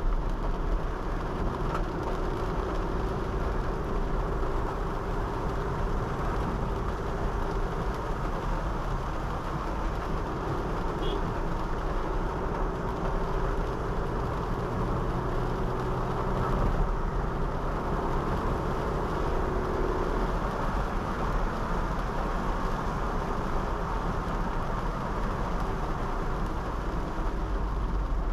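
Honda City 5th Gen sedan driving on a wet road: steady tyre and road noise mixed with the car's engine running at a constant pace.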